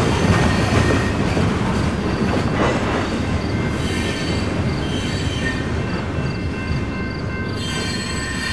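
The tail end of a Norfolk Southern coal train rolling past and away: a steady rumble of steel wheels on rail that slowly fades. Over it, a thin, high metallic ringing pulses about twice a second.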